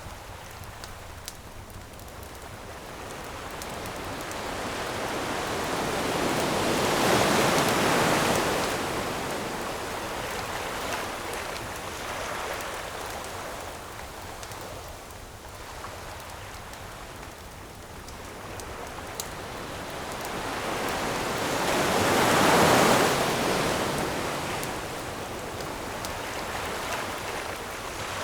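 Ocean waves breaking and washing up a beach, two slow surges that build and fade, the first peaking about a quarter of the way in and the second about three quarters in. Faint campfire crackles pop now and then over the surf.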